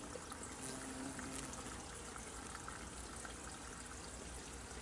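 Steady rain falling, an even watery hiss.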